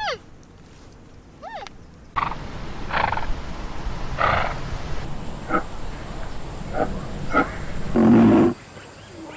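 Animal calls: two short calls falling steeply in pitch near the start, then from about two seconds in a run of rough, noisy calls, the loudest near the end.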